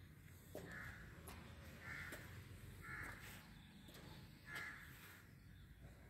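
A bird calling four times, each a short faint call about a second apart.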